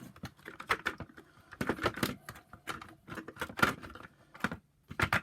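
Irregular clicks and knocks of the hard plastic parts of a Shark IZ300UKT vacuum power nozzle being handled and fitted together by hand. The loudest knocks come about two seconds in and again past the middle.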